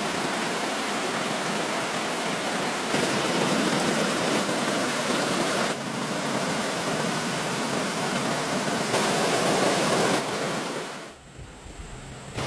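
Steady rushing water noise that shifts in level at a few points, then drops away to a quieter low rumble about eleven seconds in.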